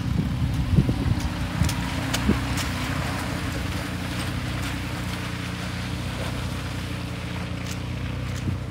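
A vehicle engine running steadily at a low, even pitch, with a few light knocks in the first couple of seconds.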